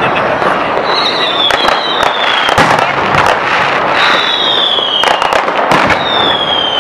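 Fireworks going off in quick succession: many sharp bangs and crackles, with three high whistles from whistling fireworks that each slide down in pitch over about a second, starting about one, four and six seconds in.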